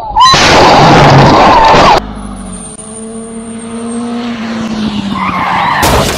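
Road vehicle: a very loud, harsh noise lasting about a second and a half, then an engine running steadily and growing louder, then another loud, harsh noise near the end.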